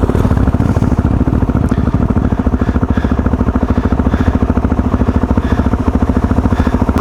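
Motorcycle engine running steadily while riding, with an even train of firing pulses and no change in revs.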